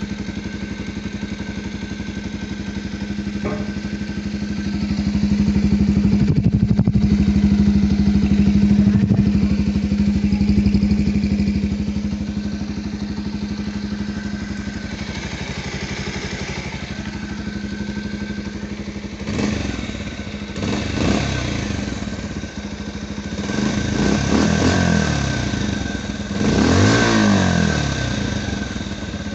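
Bajaj Pulsar 125 BS6's single-cylinder 125 cc engine idling steadily through its exhaust, then revved in three or four quick throttle blips in the second half, its pitch rising and falling each time.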